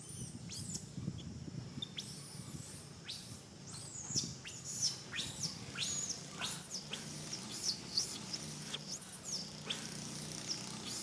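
Baby monkey crying: repeated short, high-pitched squeals, each falling in pitch, coming one to three times a second.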